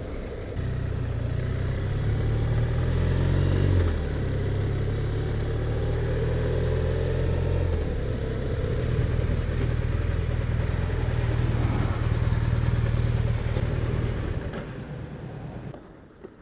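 BMW R1200RT's flat-twin boxer engine running on the move over wind and road noise, rising in pitch as it accelerates about three to four seconds in, then holding steady. Near the end the engine sound falls away and it goes much quieter.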